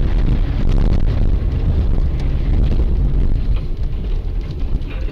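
Steady low rumble of a vehicle on the move, recorded by a dash cam, with a few brief clicks about a second in.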